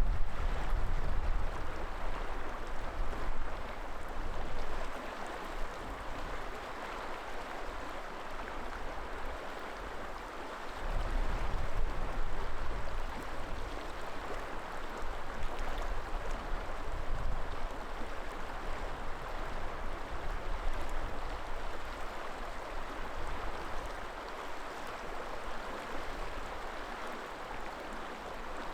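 River water flowing steadily. Wind gusts buffet the microphone with a low rumble at the start and again about eleven seconds in.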